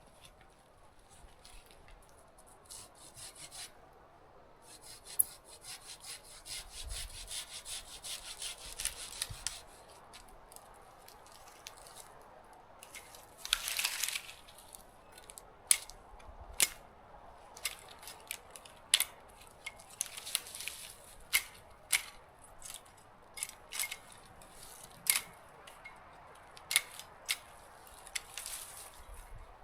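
Footsteps crunching in cold snow with rustling through brush, sharp crisp crunches about once a second in the second half.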